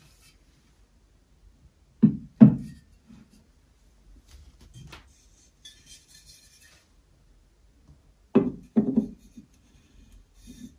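Two pairs of dull knocks, each pair two quick hits, one pair about two seconds in and the other about eight seconds in.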